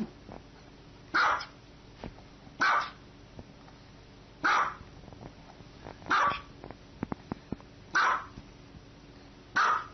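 A dog barking six single barks at an even pace, about one every one and a half to two seconds.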